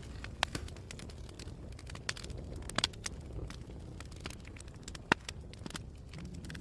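Fire burning in a fireplace, crackling with frequent irregular sharp pops, the loudest pop about five seconds in, over a steady low rumble.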